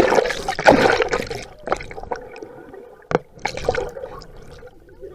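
Water splashing and sloshing close to the microphone, loudest in the first second and a half and again briefly later, with one sharp knock about three seconds in.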